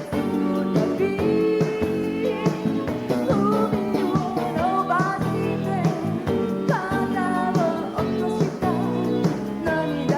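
Female vocalist singing a pop song live over a full band, with drums keeping a steady beat.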